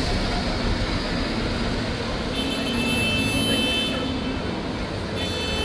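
City street traffic noise as a vehicle passes, with a steady wash of road noise. A thin high whine sounds briefly about two seconds in and again near the end.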